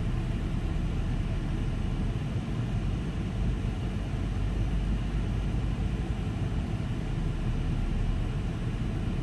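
Steady low rumble of a car heard from inside its cabin, with no distinct events.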